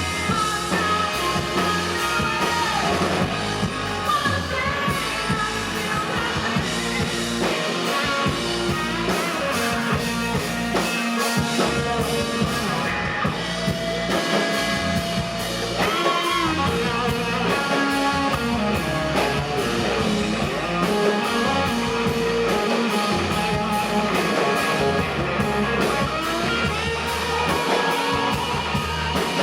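Rock band playing live: electric guitar over bass and drum kit, with singing.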